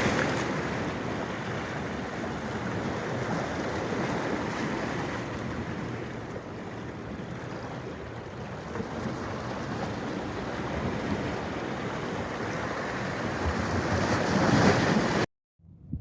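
Steady rushing of flowing water, a constant noisy wash with no clear birdsong, which cuts off abruptly near the end.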